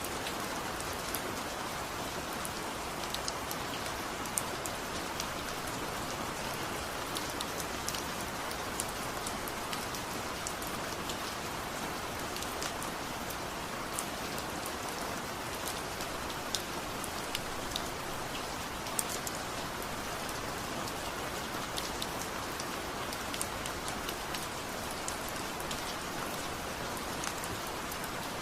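Steady rain falling, an even hiss with many scattered light drop ticks.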